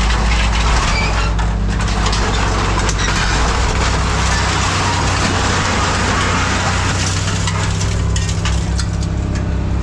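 Scrap metal crunching and crackling as it is crushed, with many sharp cracks, over the steady drone of a heavy machine's engine. The crunching thins out near the end.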